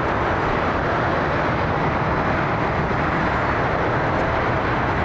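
Jet airliner engines, a loud, steady, unbroken rushing noise.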